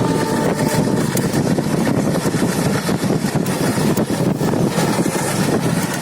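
Passenger train running on the line as it departs, a steady heavy rumble.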